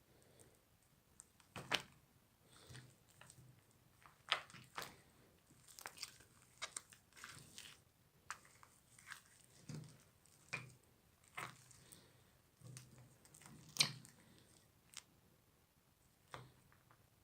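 Crunchy slime being squeezed and pressed, giving soft, irregular crackles and pops with a few louder snaps.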